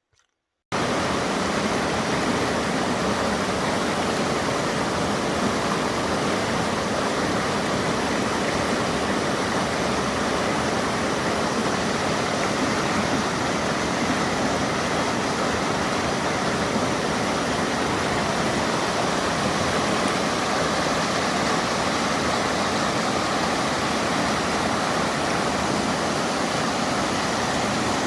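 Waterfall, a steady loud rush of falling water that starts abruptly about a second in.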